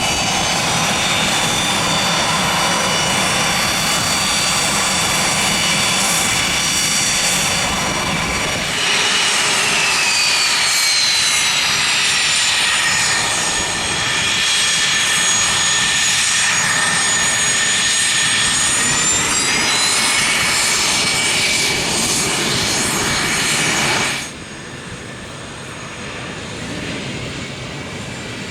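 Business-jet turbofan engines whining: first a Beechcraft 400XP with a steady whine, then, about nine seconds in, a Cessna Citation III whose engine whine slides down in pitch, holds, and rises again. Near the end the sound drops abruptly to a quieter, duller jet hum.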